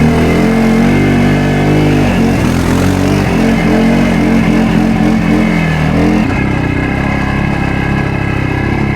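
ATV engine, a CFMOTO CForce 600, working through soupy mud, its revs rising and falling unevenly. About six seconds in it settles to a steadier, slightly quieter running note.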